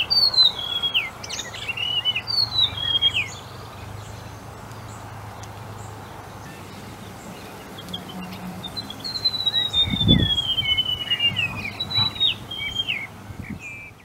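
White-throated gerygone singing: sweet, high phrases that slide downward in pitch, two short ones in the first few seconds, then a long falling phrase about nine seconds in followed by a couple of shorter ones. Steady background hiss and a brief low thump about ten seconds in.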